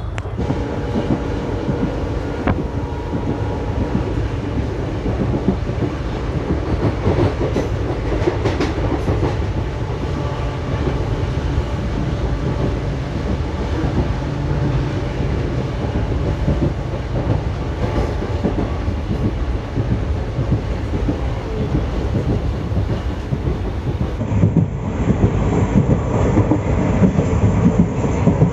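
A passenger train running along the track: a steady rumble of wheels on rail, with occasional sharp clicks, growing louder near the end.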